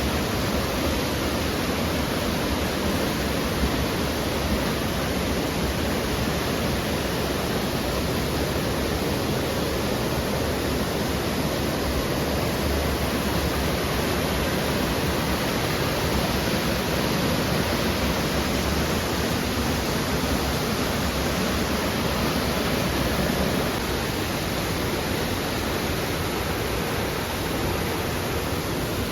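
Waterfall rushing, a loud steady roar of falling water that eases slightly near the end.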